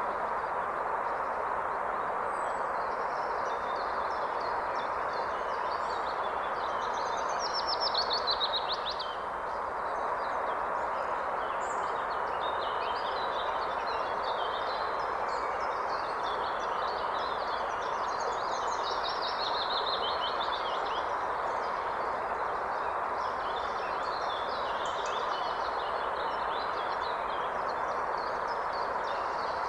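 Steady rush of a flowing river with songbirds singing over it. The birds give repeated chirps and quick trills, busiest about a quarter of the way in and again near the middle.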